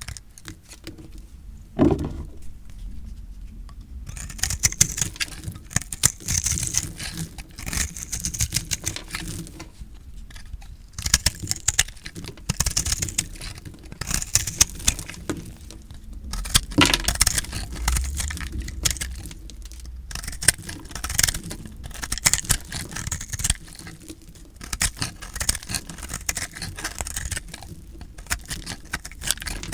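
Blade cutting through recycled soap: dense, crisp crunching and crackling in repeated runs of strokes, with a sharper knock about two seconds in and another about halfway through.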